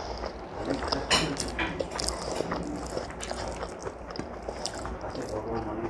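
Close-up mouth sounds of someone chewing a meal of rice and vegetables: wet smacks and small crunches, with soft clicks of fingers mixing food on the plate. The loudest smacks come about a second in.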